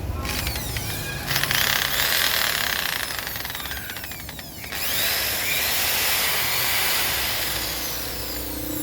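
Handheld power tool running in bursts: a loud high hiss with whines that slide down in pitch. It dips briefly about four and a half seconds in, then runs again.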